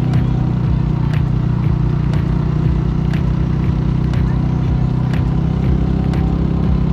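Mutt Akita 250 motorcycle engine running at a steady cruise, holding an even pitch throughout.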